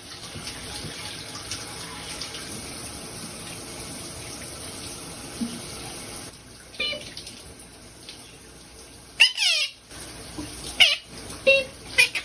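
Steady hiss of running tap water with a pet bird calling over it: a few short calls, a louder call falling in pitch about nine seconds in, then quick repeated chirps near the end.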